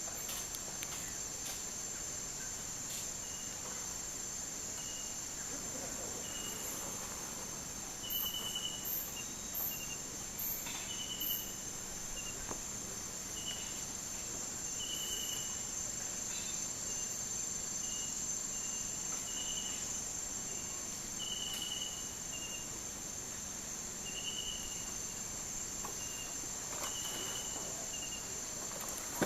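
Amazon rainforest insects: a steady, high-pitched insect drone, with short chirps repeating irregularly at a lower pitch and a brief run of very high pulses about eight seconds in.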